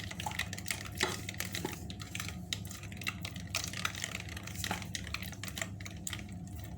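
Batter being mixed by hand in a big bowl as flour goes in: irregular light clicks and scrapes of the mixing utensil against the bowl, over a steady low hum.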